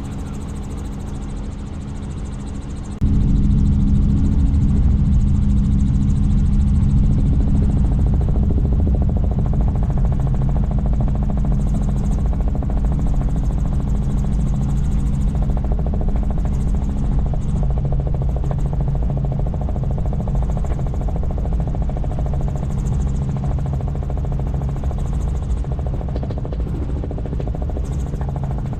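Helicopter in flight: a steady, loud low drone of rotor and engine that jumps abruptly louder about three seconds in, then eases off slightly.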